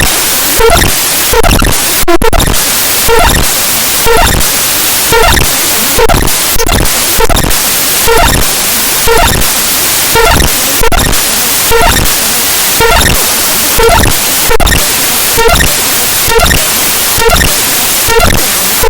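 Raw binary data of the Windows imageres.dll file played back as 44.1 kHz stereo audio: loud, harsh digital static. The static pulses in a regular pattern a little more than once a second, with short tonal blips repeating in each cycle.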